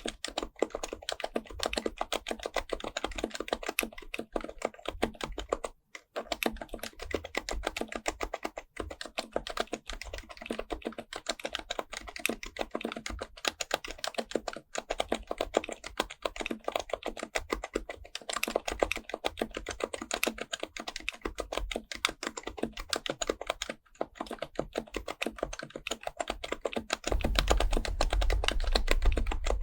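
HHKB Professional Type-S keyboard with Topre capacitive switches being typed on continuously in a fast stream of soft keystrokes, with brief pauses twice. A low rumble joins near the end.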